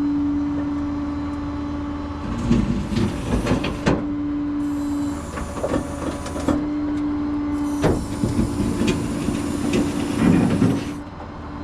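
Rollback tow truck's hydraulic bed working: a steady pump whine that briefly drops out, with metal clanks and rattles and a hiss as the bed moves.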